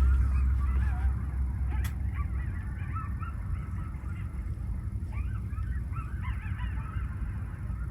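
A flock of geese honking, many short overlapping calls, over a steady low rumble.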